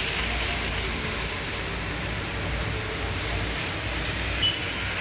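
Heavy downpour pouring steadily, a dense, even rushing hiss of rain. A brief high squeak sounds near the end.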